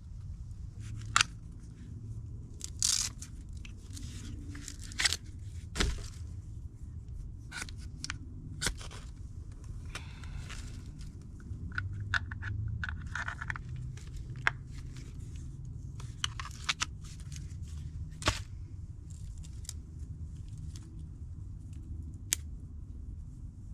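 Irregular sharp snaps, crunches and short scrapes of dry sticks and tinder being broken and handled to build a campfire, over a steady low rumble.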